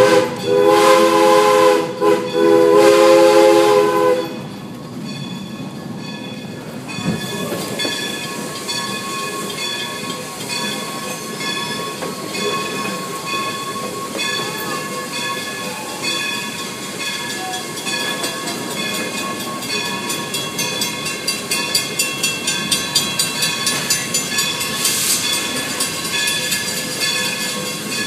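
A locomotive's warning signal sounds a loud chord of several notes for about four seconds. Then comes the steady running noise of a passenger train's coach rolling on the rails, with faint high squeal tones. Toward the end a regular clickety-clack of wheels over rail joints joins in.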